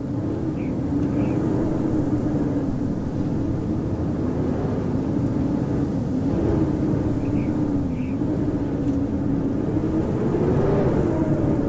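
Howling wind in a snowstorm: a steady rush of noise with a low moaning tone that wavers slowly up and down.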